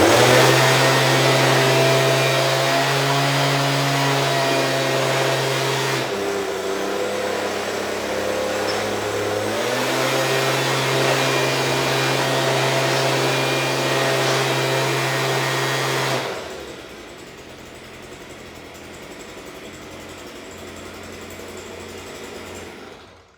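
Stihl BG 86 handheld leaf blower's two-stroke engine running at high throttle with a steady blowing rush. The pitch eases lower about six seconds in and comes back up about ten seconds in. It drops to a quieter idle around sixteen seconds and cuts off just before the end. The engine is running well after a cold start.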